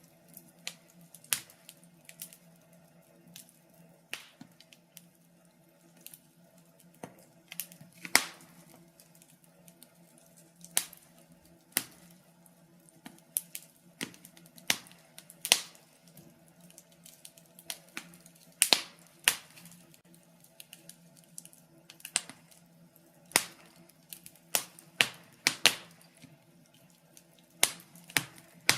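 Logs burning in a fireplace, crackling with irregular sharp pops, some much louder than others, over a faint steady low hum.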